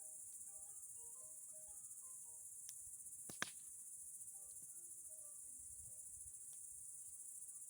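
Crickets chirring steadily in the night, a continuous high trill, with faint music underneath and one sharp crack about three and a half seconds in.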